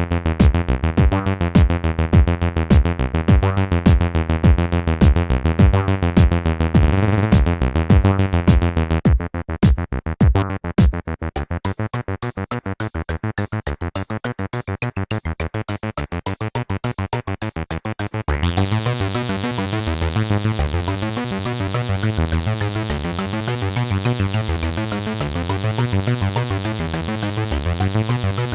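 Two Behringer TD-3-MO acid bass synthesizers playing a sequenced bassline in unison, with a drum machine beat from a Roland JD-Xi. The loudest drum hits drop away about eleven seconds in, and about eighteen seconds in the synth line turns suddenly brighter and buzzier.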